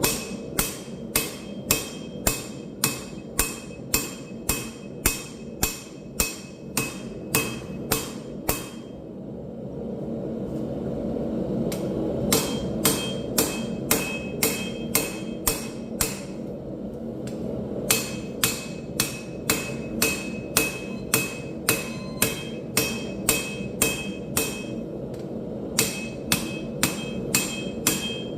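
Hand hammer striking hot steel on an anvil at about two blows a second, each blow ringing, in three runs broken by two short pauses. A steady low rush continues underneath throughout.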